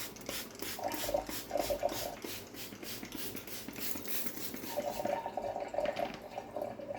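Scrubby sponge scrubbing the inside of a microwave oven with a degreaser, in quick back-and-forth strokes about four or five a second that ease off after about four seconds.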